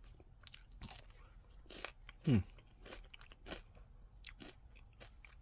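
A person chewing a bitten Nestlé Drumstick ice cream cone, with scattered soft crunches of waffle cone and nut coating. A short hum that falls in pitch comes about two seconds in and is the loudest sound.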